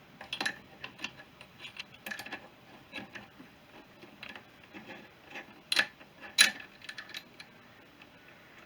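Hand tools working on a motorcycle engine during a strip-down: irregular small metallic clicks and clinks, with two sharper knocks about six seconds in.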